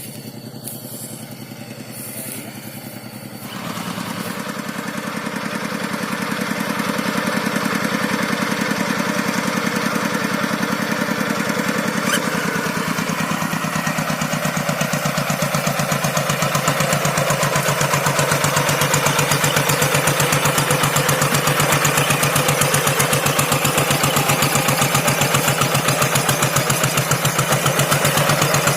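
Engine of a walk-behind rice-paddy hand tractor running steadily. It grows louder about four seconds in, drops slightly in pitch about halfway through, then settles into an even, rapid chugging.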